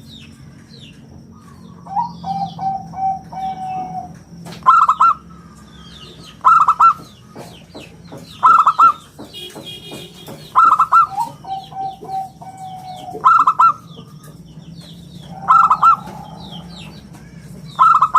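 Zebra dove (perkutut) singing: a loud short burst of cooing notes repeated about every two seconds. Twice, a lower run of even coo notes trails after a burst. Faint chirps of small birds sound in the background.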